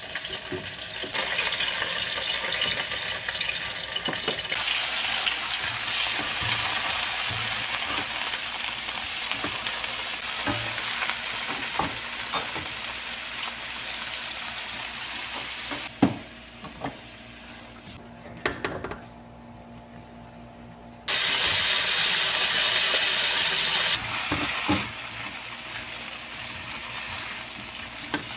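Food sizzling in a wok over a gas burner while a metal ladle stirs, scraping and knocking against the wok. The sizzling drops away for a few seconds past the middle, then comes back loud.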